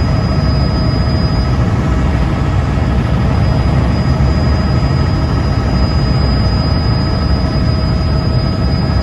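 Helicopter in flight: a loud, steady drone of engine and rotors, with a steady high whine running through it.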